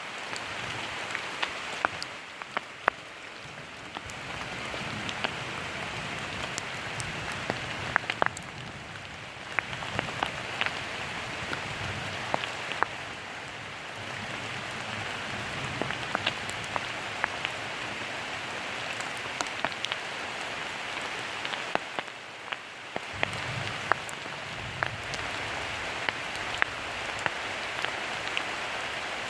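Steady autumn rain with a constant hiss and many separate drops ticking sharply on nearby surfaces.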